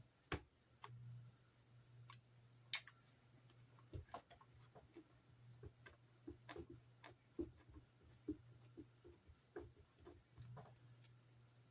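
Near silence with scattered light clicks and taps of plastic model parts and tape being handled, over a faint steady hum.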